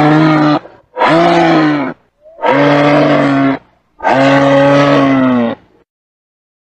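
An animal calling four times, each call a steady, loud note between about half a second and a second and a half long, the pitch dipping slightly as each ends.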